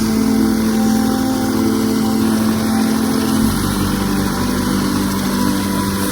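Helicopter engine and rotor running with a steady, loud drone; its pitch steps down slightly about halfway through.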